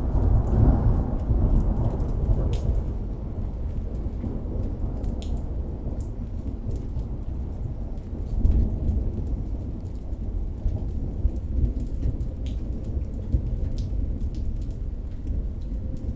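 Thunder rumbling low under steady rain. The rumble swells just after the start and again about eight seconds in, with scattered raindrop ticks throughout.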